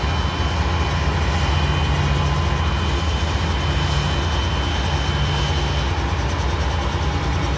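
Diesel locomotive engine running with a steady low rumble, its deep throb swelling about once a second, and a thin high tone over it that stops about six seconds in.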